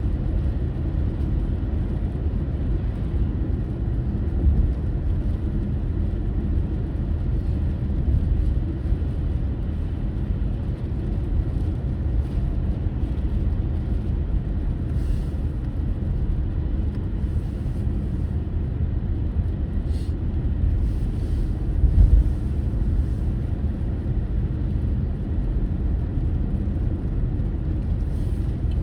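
Car driving along: a steady low rumble of road and engine noise, with a few brief bumps, the loudest about two-thirds of the way through.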